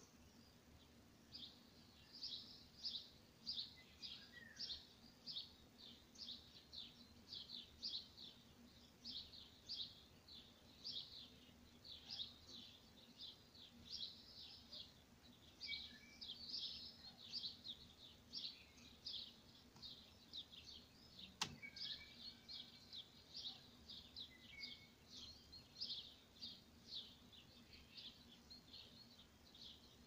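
Faint small-bird chirping: short high chirps repeated one or two times a second without a break, with a single sharp click about twenty seconds in.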